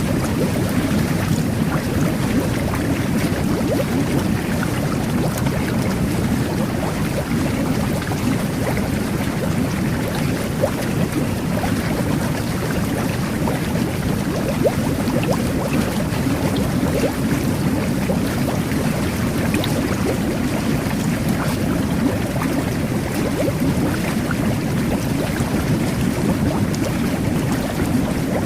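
Jet bath churning its water: a steady rush of bubbling and turbulence, with small bubble pops scattered through it.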